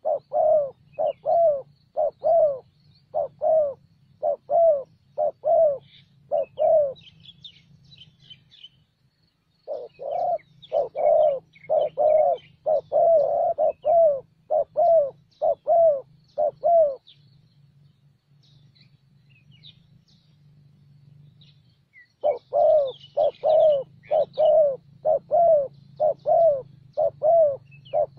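Spotted dove cooing in quick runs of short coos, about two to three a second, in three bouts separated by pauses of a few seconds. Faint chirps of small birds come in between and above them.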